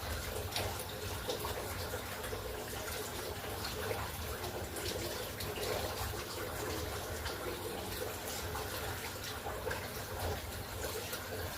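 Running water with small irregular splashes and drips, a steady noise like a tap running.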